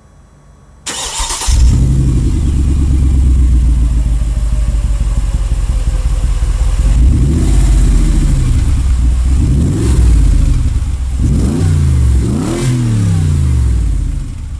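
Mercedes-Benz G500's 5.5-litre naturally aspirated V8 cranked and started about a second in, settling to a steady idle. In the second half it is revved several times in short blips whose pitch rises and falls.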